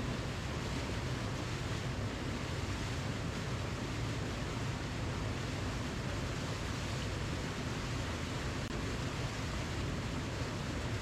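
Waterfall: a steady, unbroken rush of falling water, deepest in the low end, with no change across the stretch.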